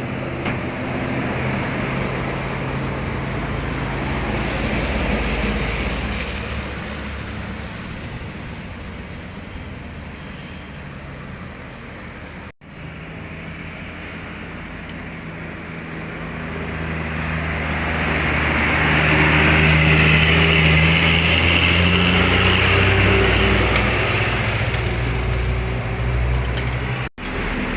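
Intercity buses driving past, engine and tyre noise swelling as one comes close and fading as it goes, broken twice by sudden cuts.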